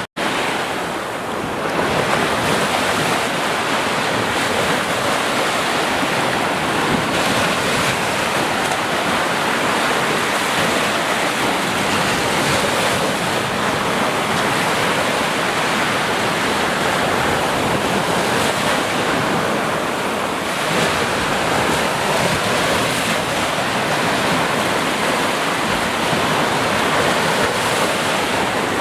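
Ocean surf: a steady, dense wash of breaking waves, with a brief cut-out just after the start.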